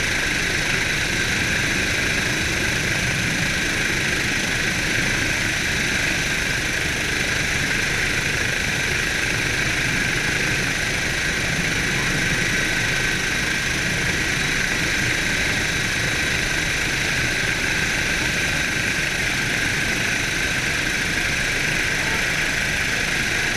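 Helicopter running steadily overhead, its turbine giving a constant high whine over the rotor noise.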